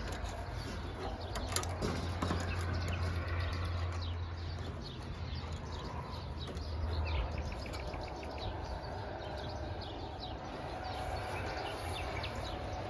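Small birds chirping and twittering repeatedly, over a low steady rumble that fades out about halfway through.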